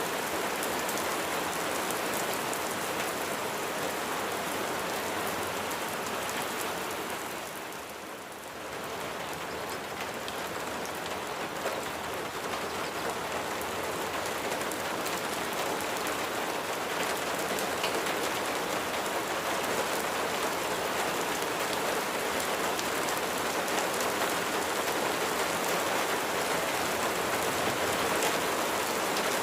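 Steady rain falling on a surface, with individual drops ticking close by; the rain dips briefly in loudness about eight seconds in, then returns.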